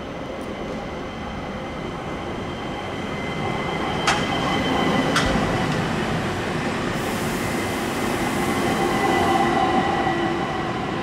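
Train running through the station: a steady rolling noise that swells in the middle, with high steady squealing tones from the wheels. Two sharp clacks come about four and five seconds in.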